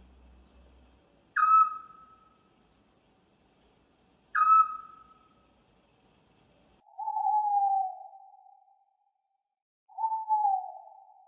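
Owl calling. First come two short, sharp calls about three seconds apart, each dropping quickly in pitch. Then the faint background noise cuts out, and two longer, lower calls follow about three seconds apart, each falling slightly in pitch.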